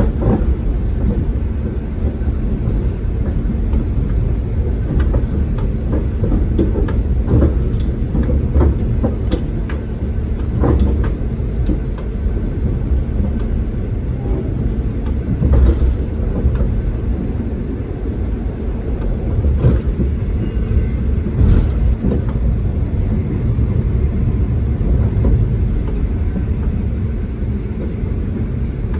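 Cabin noise inside a V/Line diesel passenger train running at speed: a steady low rumble of wheels on rail and running gear, broken by scattered knocks and clicks from the track.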